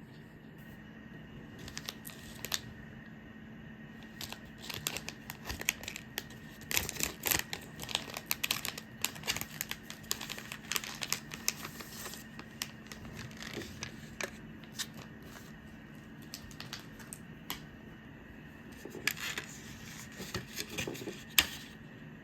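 Crinkly wrapping, such as plastic film or paper packaging, being handled, crinkling and rustling in irregular bursts over a faint steady hum.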